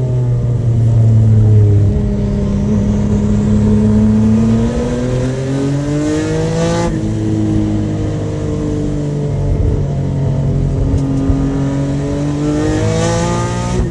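Nissan S13 drift car's engine pulling hard under full throttle, its pitch climbing steadily to a sudden drop at an upshift about seven seconds in, then climbing again near the end.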